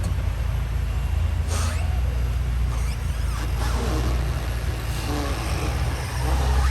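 Bentley Continental GTC Speed's 6.0-litre twin-turbo W12 idling steadily with a low, even hum, with faint voices in the background.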